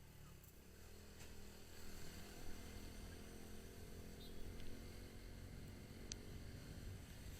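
Motorcycle engine running at steady revs, a faint low rumble, with a couple of short ticks.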